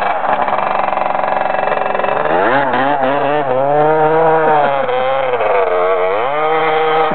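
Husqvarna 250 dirt bike engine under load, revs changing as it rides: the pitch climbs about two and a half seconds in, holds, dips near six seconds and picks up again.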